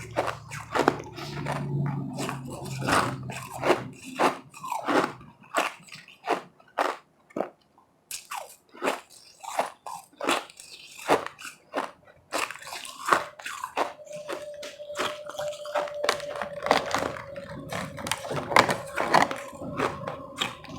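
Close-up crunching and chewing of powdery ice, bite after bite at an irregular pace. A faint steady hum joins about two-thirds of the way through.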